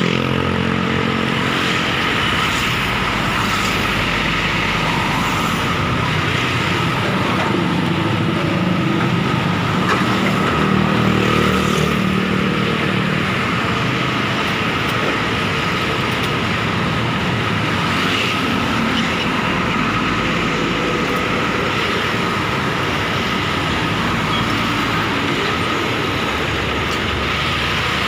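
Roadside traffic, with heavy trucks and buses driving past, their engines running and tyres rumbling on the road in a steady wash of noise. One vehicle passing around ten seconds in is a little louder.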